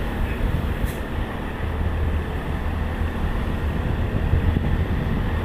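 Isuzu Giga diesel container truck running on the road: a steady low rumble with road noise, and a brief click about a second in.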